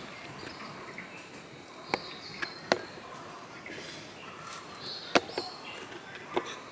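About six sharp, irregular knocks of a kitchen knife against a cutting board during garlic preparation, in two short clusters. Birds chirp faintly in the background.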